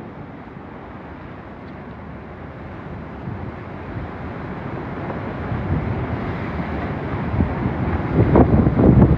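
Hurricane-force wind gusting and buffeting the microphone, building steadily louder, with the strongest gusts near the end.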